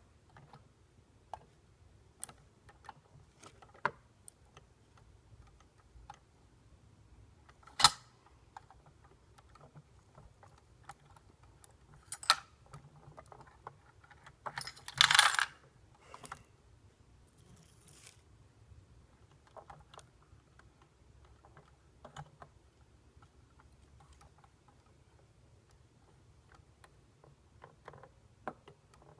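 Small clicks and taps from a model garbage truck being handled, with a louder click about 8 seconds in and a dense rattle lasting about a second and a half midway.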